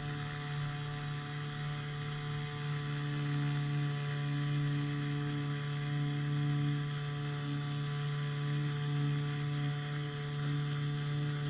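Small piston engine of a powered hang glider running steadily, with its propeller: an even, unchanging drone.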